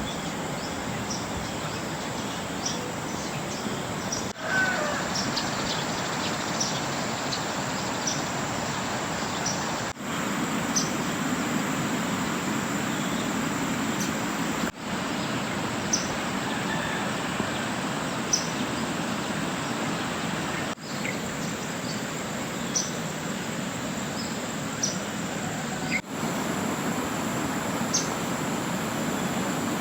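Steady rush of water, with short high bird chirps every second or two over it.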